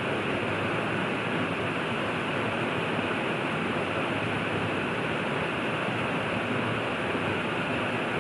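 River water rushing steadily, an even, unbroken wash of flowing-water noise with nothing else standing out.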